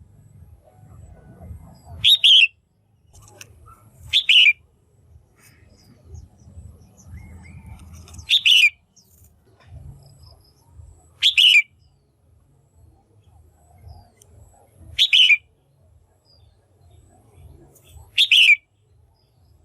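Female red-whiskered bulbul calling: six short, loud calls spaced two to four seconds apart, each dipping slightly in pitch. A faint low rumble runs underneath.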